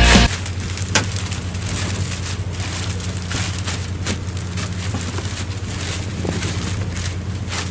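Steady low drone of a fishing boat's machinery, with irregular clicks and patters over a hiss. Background music cuts off just at the start.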